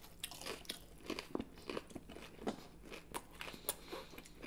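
Close-up chewing of a crispy fried chicken katsu piece: a quick, irregular run of crisp crunches.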